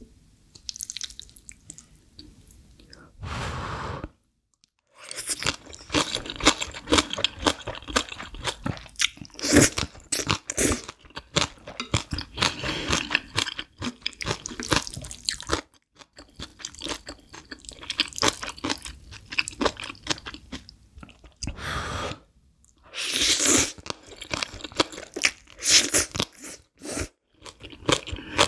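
Close-miked chewing of green onion kimchi and black bean noodles: dense, crackly crunching bites in runs of a few seconds, with short pauses between mouthfuls.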